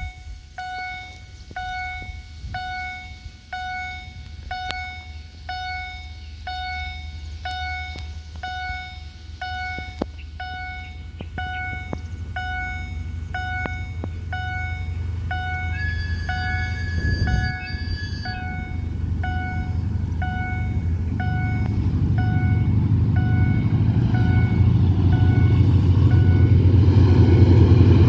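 Electronic level-crossing warning bell striking evenly about one and a half times a second, with a horn held for about two seconds around the middle. A diesel train's low engine rumble grows steadily louder toward the end as it approaches, and the bell stops shortly before the end.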